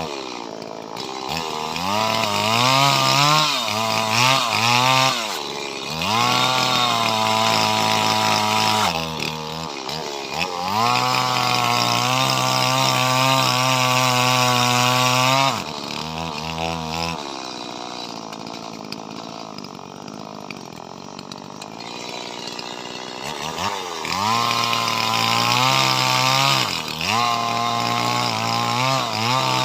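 Small Stihl two-stroke chainsaw cutting leucaena (lamtoro) wood. The engine revs up and down repeatedly and holds steady at high revs for a few seconds at a time through the cuts. About halfway it drops to a lower, quieter run for several seconds before revving again.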